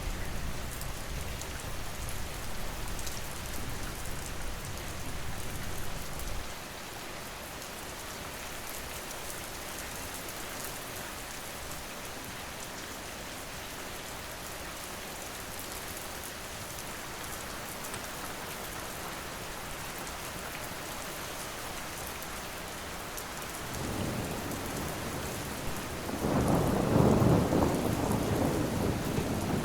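Steady rain falling. A low thunder rumble dies away about six seconds in, and another rolls in near the end, swelling to the loudest point of the stretch.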